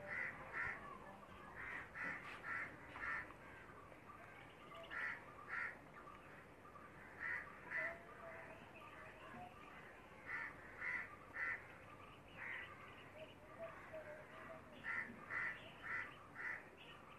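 A bird calling repeatedly: short calls in runs of two to four, coming every second or two.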